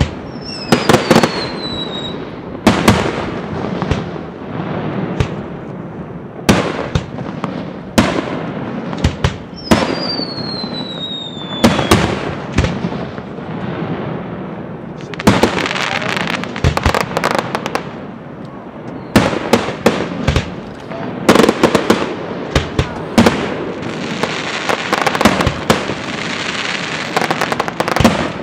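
Aerial fireworks shells bursting in quick succession, sharp bangs with an echoing rumble after each. Two falling whistles sound early on and again about ten seconds in. The last few seconds fill with dense crackling.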